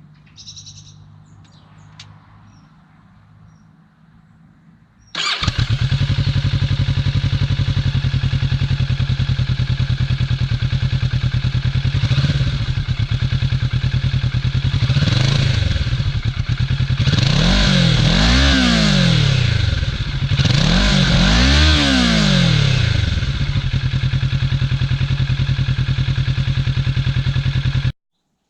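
Kawasaki Ninja 650's parallel-twin engine catching about five seconds in and idling, then revved in several quick blips, the later ones higher, before settling back to idle. The sound stops abruptly near the end.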